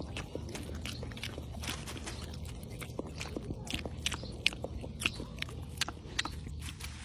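An animal chewing and crunching food: a quick, irregular run of crisp bites and clicks, one sharper crunch about halfway through, over a steady low hum.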